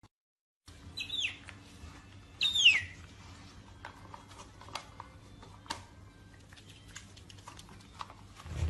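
An otter eating: two high squeaks that fall in pitch, about one and two and a half seconds in, then scattered clicks and crunches of chewing.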